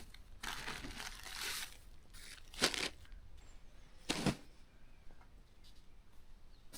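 Rustling and crinkling of hammock camping gear being handled and unpacked, with two louder, short rips or swishes about two and a half and four seconds in.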